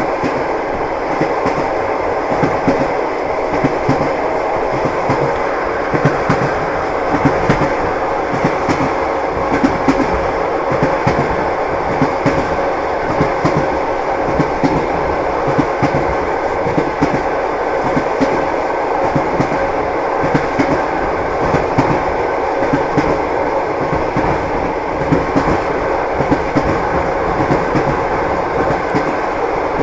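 Passenger train running at steady speed, heard from inside the carriage: a continuous rumble and hiss with a constant clatter of wheels knocking over the rail joints.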